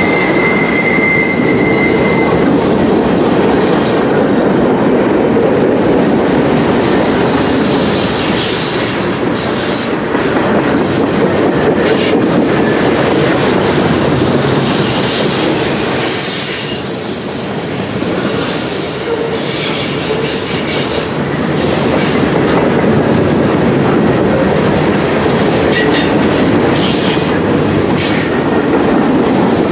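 Freight cars rolling past close by: a steady rumble of steel wheels on rail, with clicks as the wheels cross rail joints. A thin wheel squeal sounds during the first couple of seconds.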